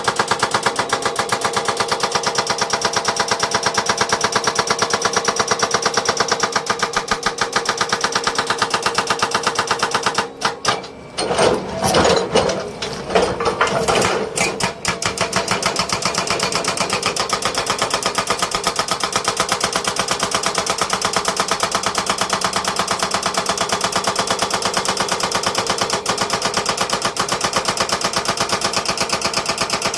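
Heavy construction machinery running with a rapid, even mechanical pulsing. About ten seconds in, the rhythm breaks off for a few seconds into louder, irregular knocking and clatter, then the steady pulsing returns.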